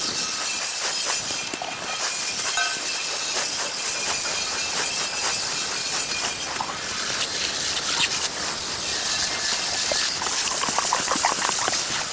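Steady hissing noise with light scraping, from cleaning the dirty steel rim of a lawn tractor wheel.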